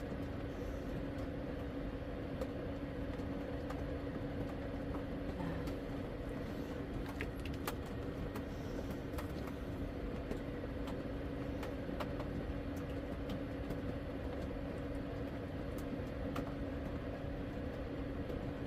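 Steady hum of a running fan, holding two pitched tones over a broad whoosh, with scattered faint ticks and taps.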